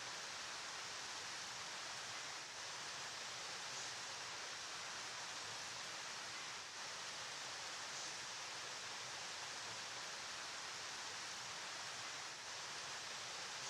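A river flowing: a steady, even, hissy rush of water with no distinct splashes.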